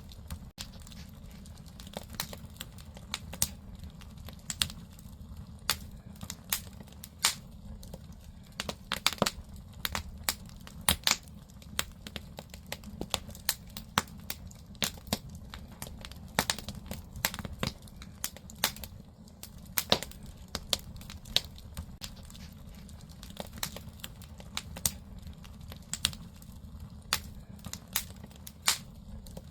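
Firewood burning in a wood-fired agungi firebox, crackling and popping with many sharp, irregular snaps over a steady low rumble of the fire.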